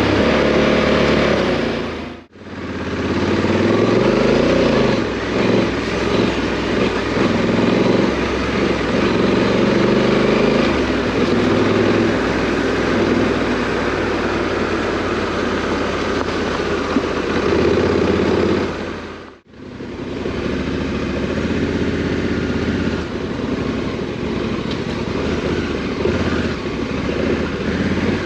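Parallel-twin adventure motorcycle engine being ridden off-road, its pitch rising and falling as the throttle opens and closes. The sound drops out briefly twice, about two seconds in and again about two-thirds of the way through.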